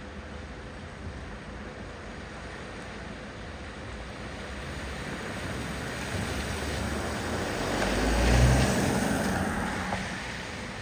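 A vehicle driving through deep floodwater on a road: the rush and splash of water grows louder to a peak about eight seconds in, with a low rumble as it passes, then fades away.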